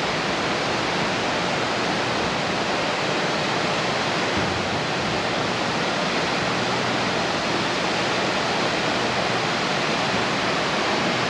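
Steady rush of water at the lock, a constant even noise with no change in level.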